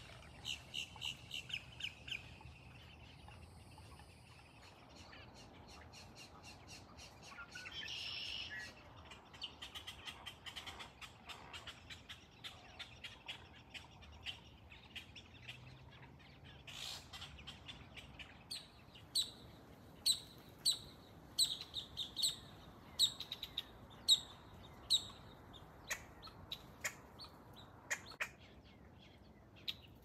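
Wild birds calling with short, high chirps. In the second half there is a run of evenly spaced chirps, about two a second.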